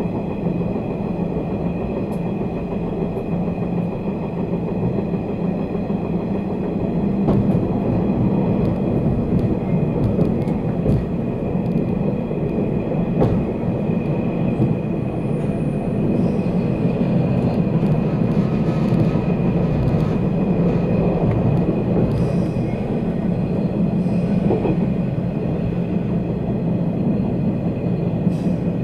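Running noise inside a passenger car of a JR 485 series 3000 electric express train: a steady rumble of wheels on rail with a constant hum and scattered faint clicks, growing a little louder about seven seconds in.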